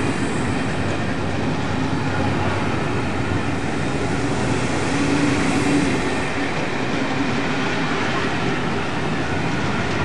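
Passenger train coaches rolling past and away on the rails, a steady rumble of wheels on track that swells slightly about five seconds in.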